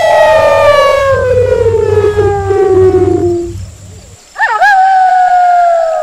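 Wolves howling: a long howl slides slowly down in pitch and fades out about three and a half seconds in. Almost at once a new howl rises sharply and holds a steady pitch.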